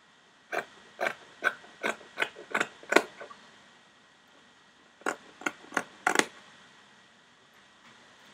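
Sharp scissors snipping through fabric: seven quick cuts at about two or three a second, a pause of nearly two seconds, then four more cuts.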